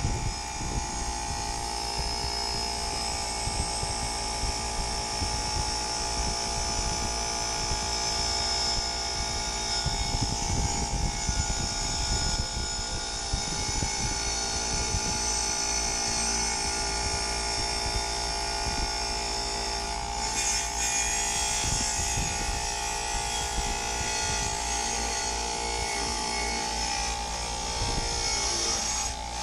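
Motor-driven wire wheel running steadily while a rusty metal motorcycle part is pressed against it, the wire bristles scrubbing off rust with a constant whine and hiss and an uneven scraping texture as the part is worked against the wheel.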